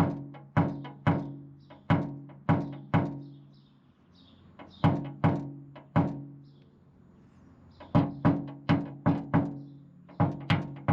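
Paintless dent repair knockdown: a hammer tapping a tap-down tool on a high spot in a truck's sheet-metal panel. The taps come in quick runs of about two a second with short pauses between them, and each one rings briefly.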